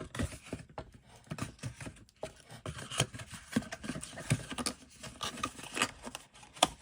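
Hands handling rolls of washi tape and their paper packaging, with irregular taps, light knocks and rustles.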